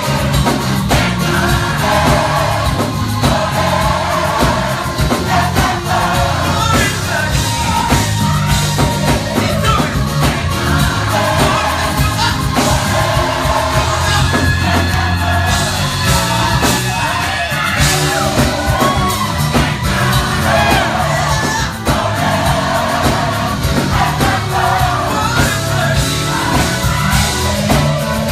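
Gospel choir singing loudly with a live band, with bass and drums under the voices.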